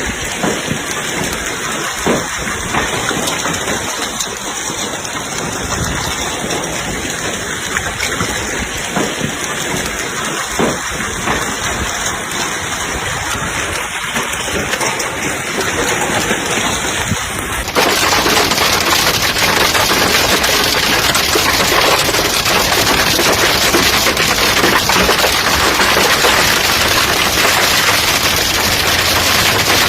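Heavy downpour: a steady rush of rain with a few scattered knocks. About two-thirds of the way through, it changes abruptly to a louder, denser hiss of pounding rain.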